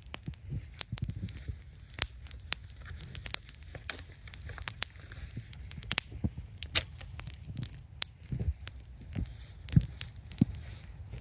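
Wood campfire crackling: a quick, irregular run of sharp pops and snaps over a steady low rumble of burning.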